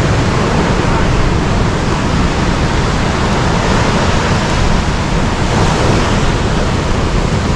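Rough ocean surf washing over the shore, a steady unbroken rush.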